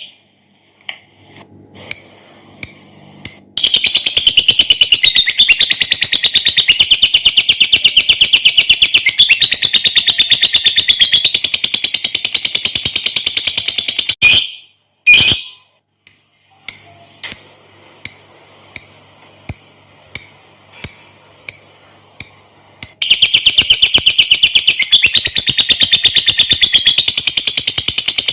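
Lovebird singing: a few separate sharp chirps, then a long, fast, high-pitched rattling trill of about ten seconds. This is the extended 'ngekek' chatter prized by lovebird keepers. About halfway through it breaks into separate chirps again, and a second long trill starts a few seconds before the end.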